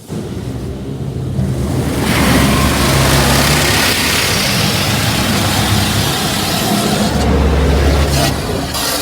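Touchless car wash spraying high-pressure water onto the car, heard from inside the car as a loud, steady rushing hiss with a low hum underneath. It starts suddenly, grows louder about two seconds in, and eases near the end.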